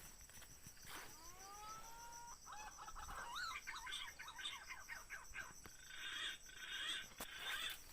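Bird calls: a rising whistle that levels off, then a run of rapid, wavering whistled notes and a harsher call near the end, over a steady high insect buzz.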